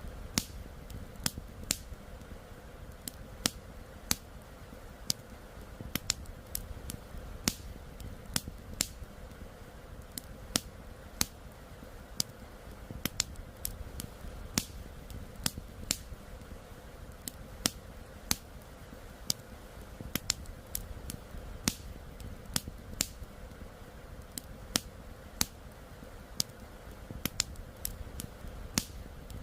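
Wood campfire crackling, with irregular sharp pops and snaps several times a second, some much louder than the rest, over a steady low rumble.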